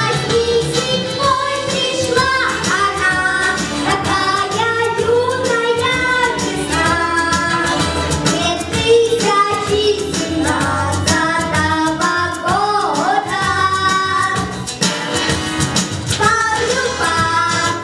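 A girl singing a song solo over a pop-style backing track, her held, gliding notes over a continuous accompaniment.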